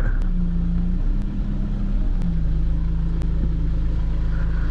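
A vehicle engine idling steadily, with a slight change in its note about two seconds in. A faint tick sounds about once a second.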